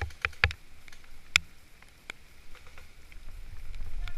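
A few sharp clicks and snaps in the first couple of seconds, the loudest about a second and a half in, then a low rumble that builds towards the end.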